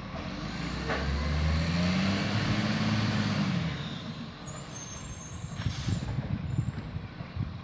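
Garbage truck driving past, its diesel engine swelling and rising in pitch, then falling away, with a rattling body. A brief high squeal comes about halfway through.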